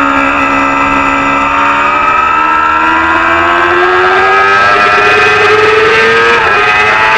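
Racing motorcycle engine at high revs, its pitch dipping slightly and then climbing steadily under hard acceleration, with a quick break in the note near the end as it shifts gear.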